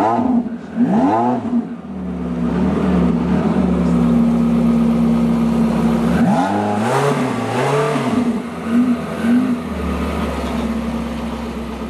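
Porsche 918 Spyder's 4.6-litre V8 idling steadily and blipped through quick throttle revs: a couple near the start, then a run of four or so short revs about six seconds in, each rising and falling back to idle.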